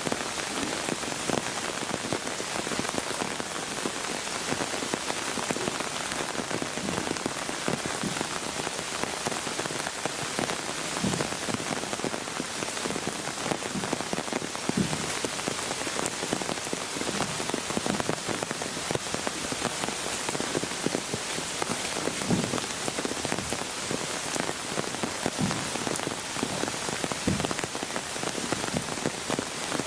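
Steady rain falling, an even hiss scattered with many single drops ticking close by and a few louder drops now and then.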